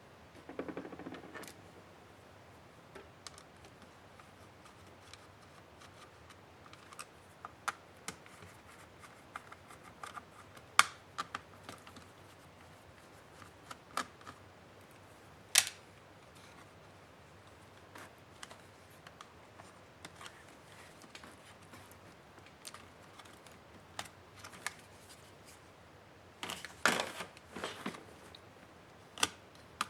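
Scattered clicks and taps from an HP 15-da laptop's plastic casing and small parts being handled and taken apart by hand, with a brief rustle about a second in and a quick run of clatter near the end.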